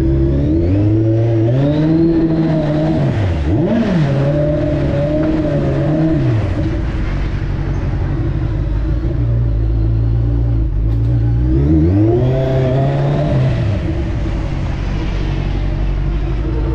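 Kawasaki Z1000 inline-four engine running on the road, its pitch climbing and falling several times as the throttle is opened and eased. It climbs in the first seconds, dips and rises again about four seconds in, and drops back around six seconds. It then climbs once more about twelve seconds in before settling lower.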